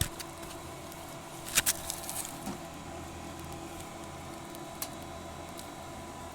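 Package heat pump unit running just after being switched on, a steady hum with several tones from its fan, blower and compressor. A pair of sharp clicks comes about a second and a half in, and a lighter click near the end.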